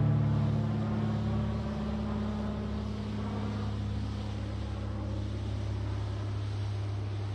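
Paramotor engine idling steadily: a constant low hum.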